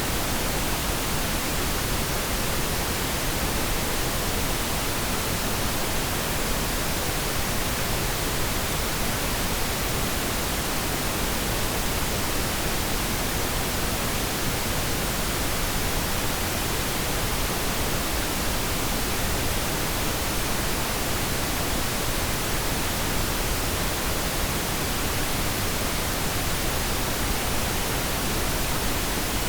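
Synthetic pink noise: a steady, even hiss spread across all pitches, unchanging throughout.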